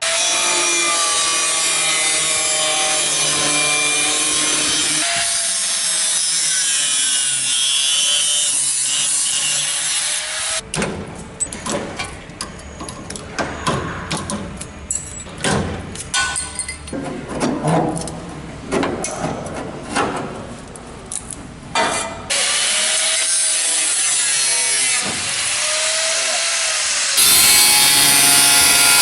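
Power tools cutting and grinding out rusty sheet steel from a car body. A steady grinding whine that wavers in pitch runs for about ten seconds, then gives way to a long stretch of irregular sharp hits and scrapes, and steady grinding comes back near the end.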